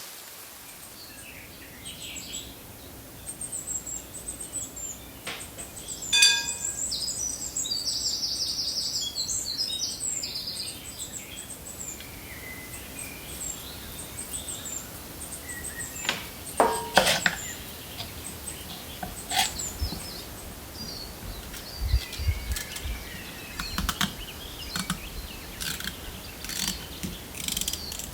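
Birds chirping and calling, with a quick run of high notes a few seconds in, over steady outdoor background noise; a few low thumps come in the second half.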